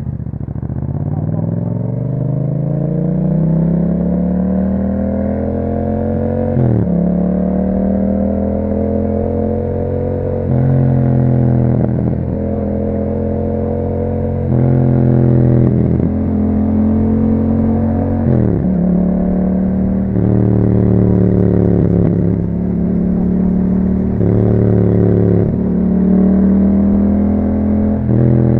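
Yamaha MT-07's parallel-twin engine through an Akrapovic exhaust, pulling away with the note climbing steadily, then riding on with the pitch dropping and picking up again every couple of seconds as gears and throttle change.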